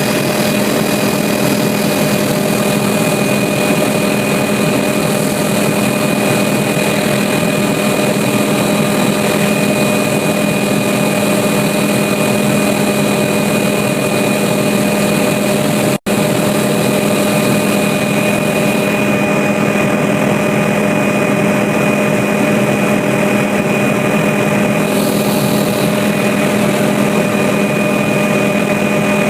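Steady, loud drone of an aircraft's engine, an even hum with fixed tones that do not rise or fall. The sound drops out for an instant a little past halfway, then carries on unchanged.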